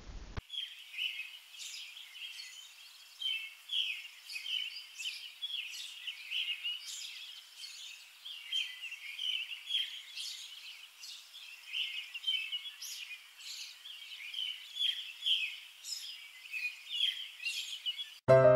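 Birds chirping: a busy stream of short, high chirps, several each second.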